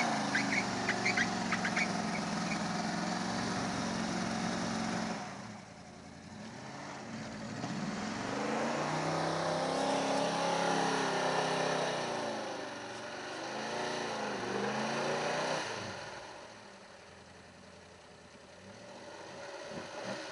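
Old 4x4 truck's engine revving up and down in surges while off-roading in mud, with a few short knocks in the first couple of seconds. Near the end it drops back to a lower, quieter run.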